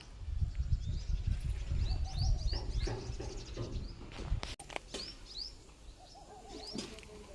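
Small birds chirping over and over, quick rising chirps, outdoors. A low rumbling noise runs under them through the first half and cuts off sharply about four and a half seconds in.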